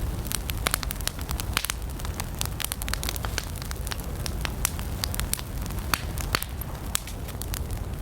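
Wood campfire burning, with many sharp irregular crackles and pops over a steady low rumble of the flames.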